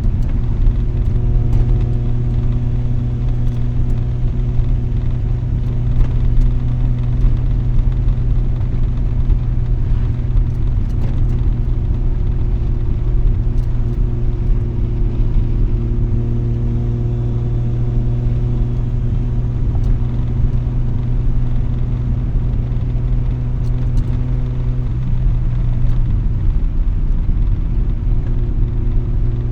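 Mazda RX-7's rotary engine running through an RE Amemiya Dolphin Tail 90 Curl exhaust, heard from inside the cabin with the windows down. The exhaust holds a steady, even note, shifting slightly lower about 26 seconds in.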